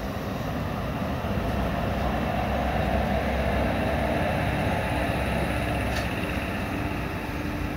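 Steady rumble of an Indian Railways passenger coach pulling out of a station, heard from the coach itself: wheel and rail noise with wind. A faint steady hum comes in about two seconds in, and there is a single sharp click near the end.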